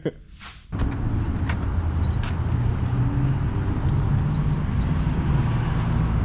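A road vehicle driving at steady speed: a steady low engine and road rumble that starts abruptly less than a second in.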